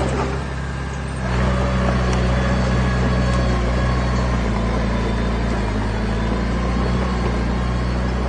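Heavy diesel engine of earthmoving equipment running steadily. It eases off briefly at first, then picks up and holds about a second in.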